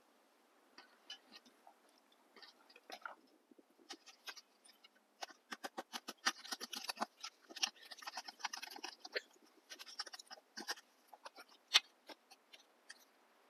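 Wood fire crackling over a deep bed of hot coals: irregular sharp pops and crackles, sparse at first and coming thick and fast from about five seconds in.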